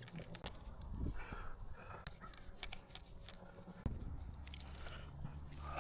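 Scattered sharp clicks and rustling handling noises, with a low steady hum coming in about four seconds in.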